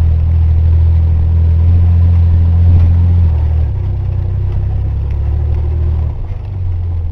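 1985 Chevy S-10 pickup's 2.8 L V6 engine running under load as the truck is driven off-road. The engine is loudest for the first three seconds, eases off a little past the middle, and drops again near the end.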